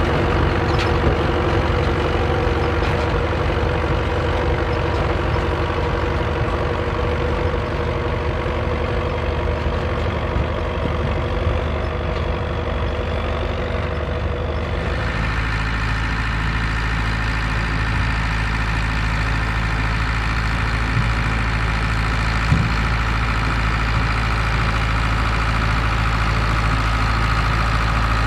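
Vintage tractor engine running steadily in the field. About fifteen seconds in, the sound switches abruptly to a deeper, steadier engine drone.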